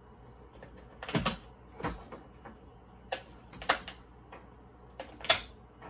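AAA batteries being handled and pressed into the plastic battery compartment of an RC transmitter: a handful of short, sharp clicks and knocks, the loudest near the end.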